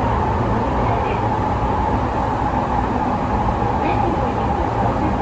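Sotetsu 12000 series electric train running at speed: a steady rumble of wheels on rail with a constant hum held at one pitch.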